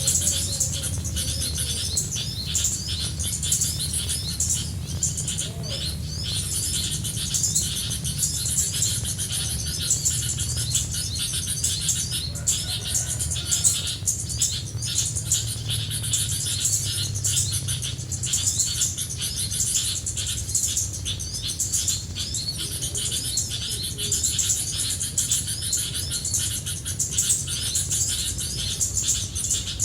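Dense, unbroken chatter of small birds chirping: many rapid high calls overlapping, over a low steady rumble.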